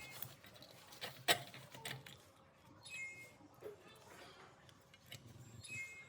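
Scattered light clicks and taps, with a sharper knock about a second in.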